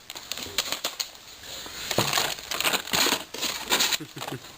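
Plastic packaging crinkling with small clicks and rattles as engine rebuild parts are handled and unpacked.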